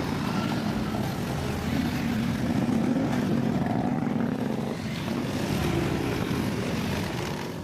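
Motorcycle engines running steadily, a low, even noise with small swells and dips.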